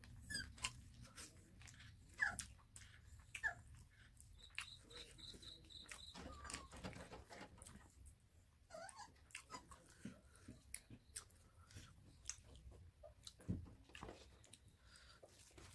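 Close-miked eating by hand: soft chewing, lip smacks and small wet clicks of fingers working rice and curried chicken. A few short falling squeaks come through a couple of times, and a brief run of high, evenly spaced chirps sounds about five seconds in.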